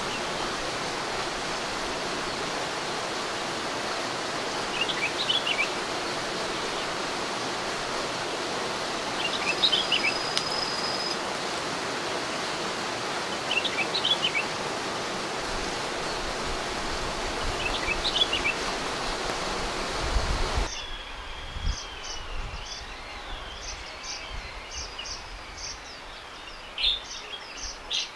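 Songbirds singing over a steady rushing noise, a short falling phrase about every four seconds. About three-quarters of the way through the rushing drops away and quicker, busier chirping and twittering takes over.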